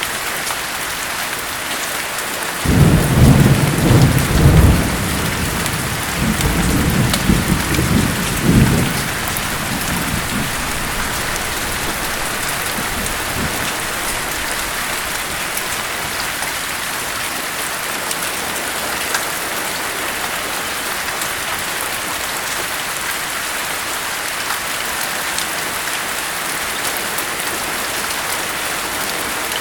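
Steady heavy rain with a rolling thunderclap. The thunder comes about three seconds in as a deep rumble in two surges and dies away by about nine seconds.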